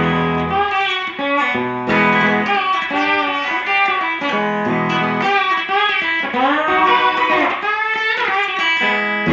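Instrumental break in a song: a guitar plays a lead line with bending, sliding notes over a steady bass and backing.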